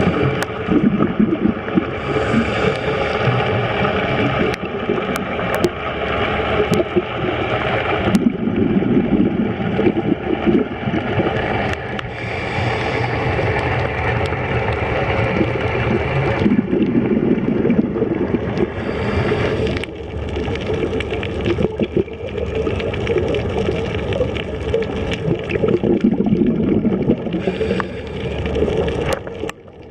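Choppy sea water sloshing and splashing under typhoon conditions, with wind buffeting the microphone.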